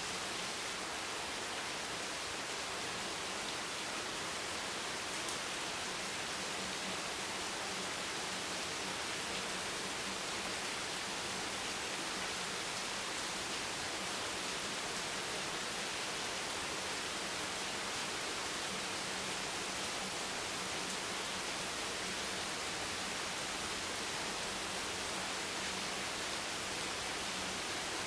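Steady rain falling, an even hiss with no separate drops, thunder or changes standing out, and a faint low hum underneath.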